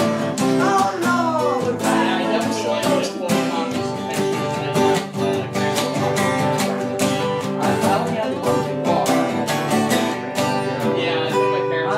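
Acoustic guitar strummed steadily in a country-style song, with no lyrics sung.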